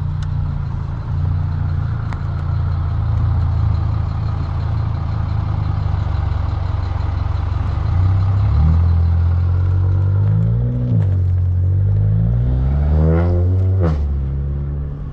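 VW Golf GTI Mk7's 2.0-litre turbocharged four-cylinder engine, stage 2 with an aftermarket intake, CTS turbo inlet pipe and downpipe, heard from inside the car while driving. It runs steadily, then about eight seconds in it pulls up through the revs, falls back, and climbs steeply again before the pitch drops sharply near the end.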